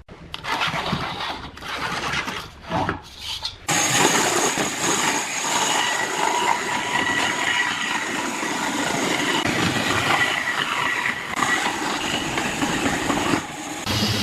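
A power tool running in a few short bursts, then held on continuously with a steady whine.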